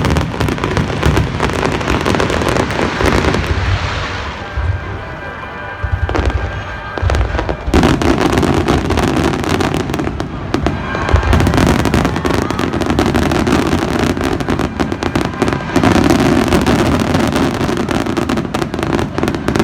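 Fireworks display: deep booms of shells bursting, mixed with dense crackling, with a quieter lull a few seconds in before the bursts pick up again.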